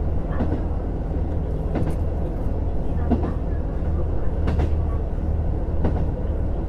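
Running sound inside a JR Hokkaido KiHa 150 diesel railcar on the move: a steady low drone from the engine and running gear, with a sharp wheel click over the rail joints about every second and a half.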